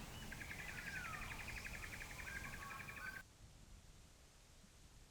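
Wild birds singing: a fast trill of repeated high notes with a falling whistle over it. The sound cuts off abruptly about three seconds in, leaving only faint background.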